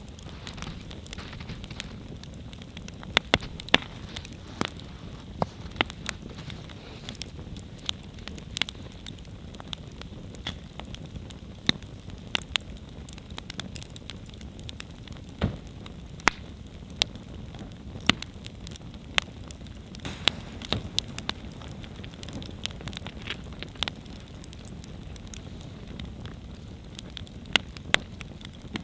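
Wood campfire burning: a steady low flame noise under irregular sharp crackles and pops from the burning wood, with a few louder snaps scattered through.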